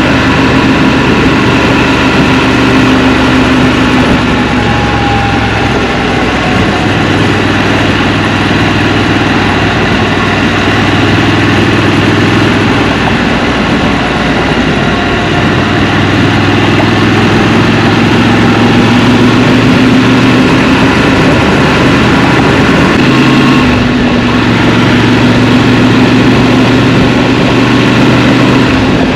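Scrambler motorcycle engine running at low speed in city traffic, heard from the rider's seat, with the engine speed stepping up and down a few times between near-idle and light throttle.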